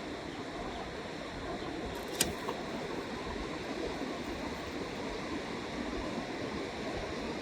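A fast river rushing steadily, with one sharp click about two seconds in.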